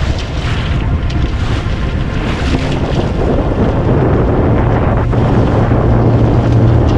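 Wind buffeting the microphone over water rushing and splashing along the hull of a small sailboat under way. A steadier low hum comes in about five seconds in.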